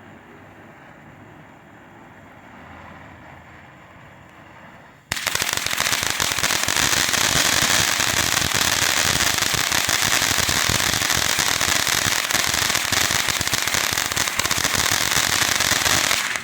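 Galaxy Fireworks Pop Candy Fountain, a consumer firework fountain, going off in its crackle phase: a dense, loud stream of rapid crackling pops. It starts suddenly about five seconds in, after a quieter steady rush, and cuts off suddenly near the end.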